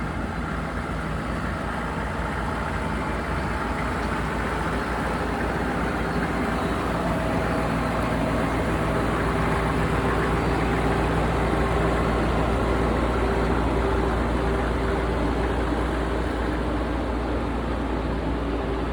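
Humvee's turbo-diesel V8 running steadily at a low, even speed, getting slightly louder toward the middle.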